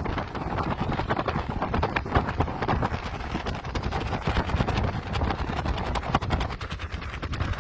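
Strong, gusty sea wind buffeting the microphone: a steady low rumble with rapid, irregular crackling.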